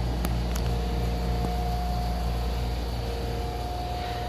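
Steady mechanical hum with a low pulsing beat, about two to three pulses a second, under a constant whine.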